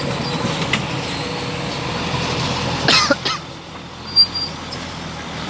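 A vehicle engine running steadily with a low rumble. About three seconds in there is a short cough-like vocal sound, and a sharp click follows about a second later.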